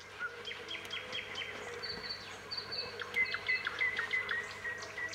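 Several small birds chirping and calling together, many short overlapping notes: quick downward strokes and brief level whistles repeated through the whole stretch.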